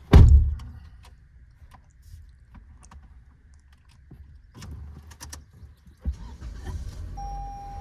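A car door slams shut with a heavy thump, followed by scattered clicks and knocks inside the car. A second thump comes about six seconds in, and a steady electronic tone starts near the end.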